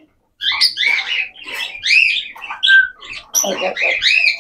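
Small pet parrots chirping and squawking: a rapid, continuous run of short, sharp, high calls.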